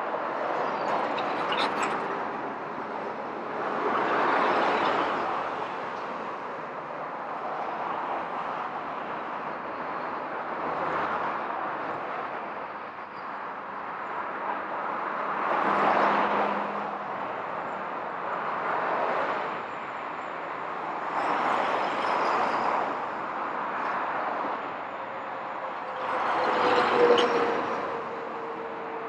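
Road vehicles passing one after another, each swelling up and fading over a second or two, about every five or six seconds, over a steady background of traffic noise.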